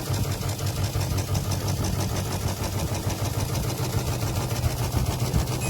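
LG LW1022FVSM window air conditioner running with a steady low hum and a fast rubbing rattle: the fan is rubbing and the unit is struggling, which the owner blames on cheap plastic housing that has warped and sagged.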